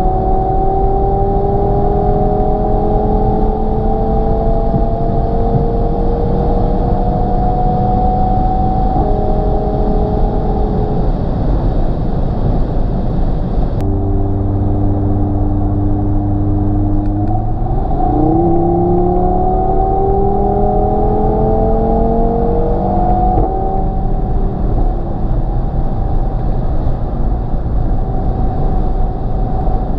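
Audi TT RS 2.5 TFSI turbocharged five-cylinder engine, heard from inside the cabin through the sport exhaust with its valves open, pulling under load. The engine note climbs slowly and changes gear several times, with one quick rise in revs past the middle, over steady road noise.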